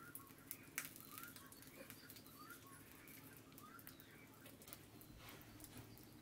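Near silence with faint short bird chirps repeating about every half second, a few soft clicks, and a low steady hum.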